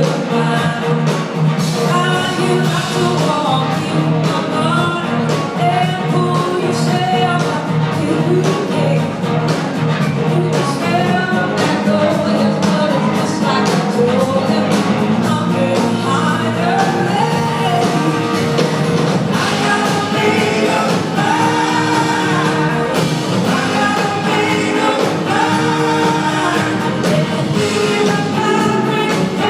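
Live blues-rock band playing at full volume, with a steady drum beat under it and a voice singing over the band.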